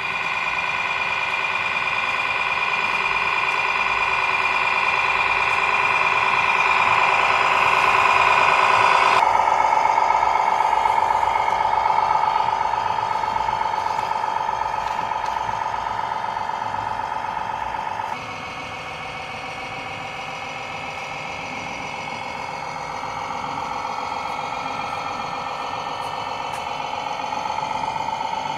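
Remote-control model construction machinery running: a steady mechanical hum and whine, with no deep bass, that changes pitch and loudness abruptly twice.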